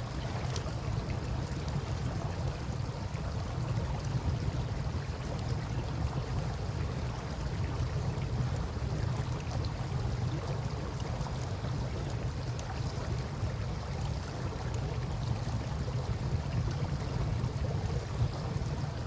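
Campfire crackling with faint, scattered small pops over a steady rush of river water and a low rumble.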